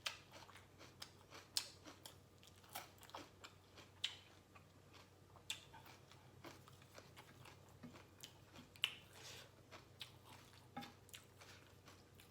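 A person chewing Lao-style papaya salad close to the microphone: quiet, irregular crunches and wet mouth clicks, with a few sharper crunches standing out.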